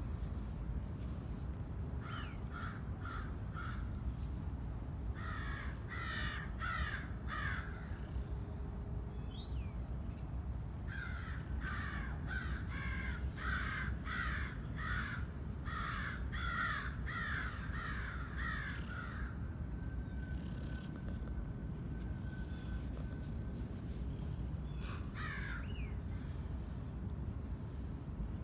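A bird calling in runs of short, harsh, evenly spaced calls, about three a second, in three bouts with the longest near the middle, over steady low background noise.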